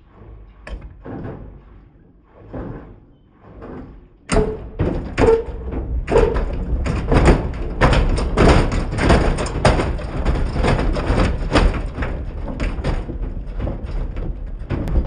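AEG/Electrolux washing machine drum turning with a 6-litre water bottle inside, the bottle knocking and thudding against the drum. About four seconds in it turns much louder, into rapid, irregular bangs and thumps as the bottle is flung around.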